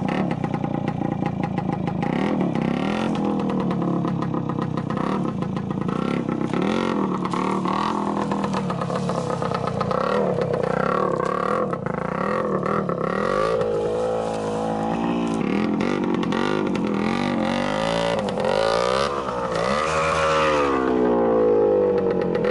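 Yamaha TY trials motorcycle's single-cylinder two-stroke engine being ridden, its revs rising and falling again and again as the throttle is blipped, with the swings most frequent in the second half.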